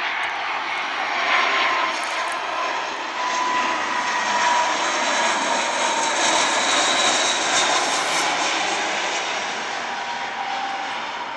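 Airbus A319 jet engines passing on landing approach: a broad rushing roar with a thin whine, swelling to a peak midway and fading away toward the end.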